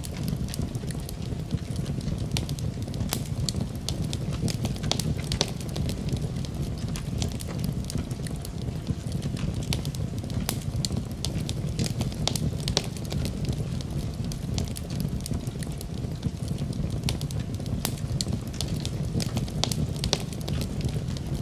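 Wood fire in a fireplace crackling: a steady low rumble of the flames with many sharp irregular snaps and pops from the burning wood.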